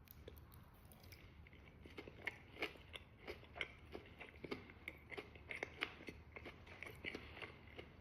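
Faint close-up chewing of fried food: soft, irregular crunchy mouth clicks, several a second.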